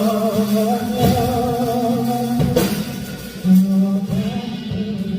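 Live pop song: a male voice singing a held, wavering melody over a band with drums and guitar.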